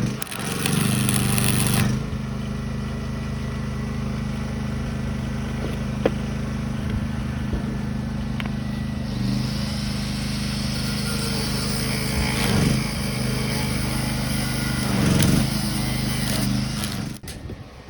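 A small engine running steadily at one speed, then cutting out near the end. A steady high hiss joins about halfway through.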